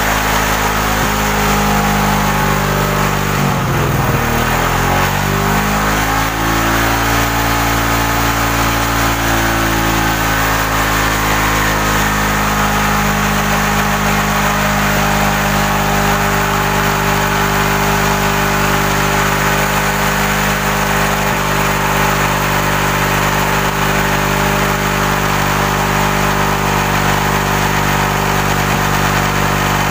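Suzuki Shogun 125's single-cylinder four-stroke engine running at idle while being warmed up, still firing normally before the heat-related cut-out it is being tested for (blamed on a weak pulser). Its speed dips briefly and recovers about four seconds in, then settles to a steady idle.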